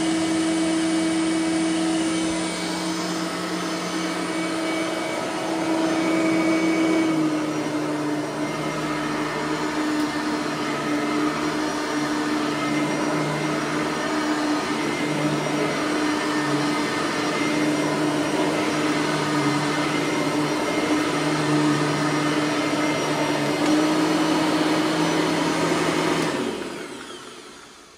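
Bissell 3510 bagged upright vacuum cleaner running on a rug: a steady motor whine whose pitch dips slightly about seven seconds in. Near the end it winds down and stops.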